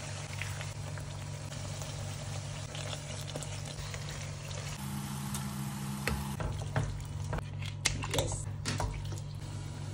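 Ginger-garlic paste and chillies sizzling in hot oil in a frying pan and being stirred with a wooden spatula, over a steady low hum. A few sharp knocks of the spatula and ingredients against the pan come in the second half.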